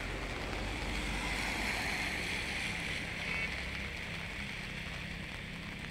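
Steady rushing noise of heavy rain and floodwater running over a road, swelling a little in the middle.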